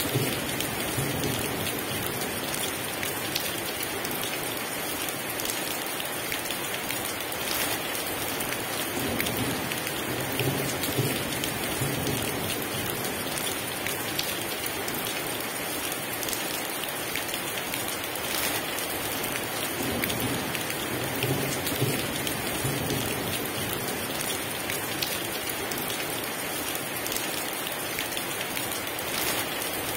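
Heavy rain pouring steadily, with low rumbles of thunder a few times.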